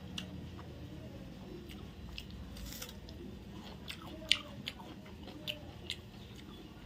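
Chewing chicken biryani eaten by hand, with a handful of short sharp mouth clicks, the loudest a little past halfway. Heard without a close microphone.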